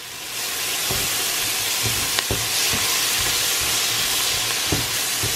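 Diced onion and carrots sizzling as they sauté in butter in a pot, with a spatula stirring them and knocking against the pot a few times. The sizzle swells during the first second, then holds steady.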